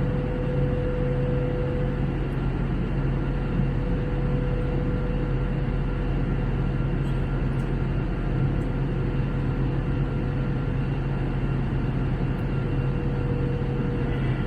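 Steady cabin noise of an Airbus A321 in flight: an even rush of engine and airflow with a constant low hum and a steady mid-pitched tone.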